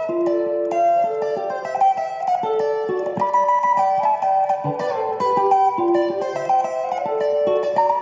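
Guitar playing a seben lead line: a continuous run of quick picked notes high on the neck.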